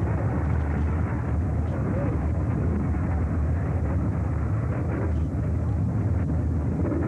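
Two cars accelerating down a drag strip, their engines heard as a steady low drone mixed with wind buffeting the microphone.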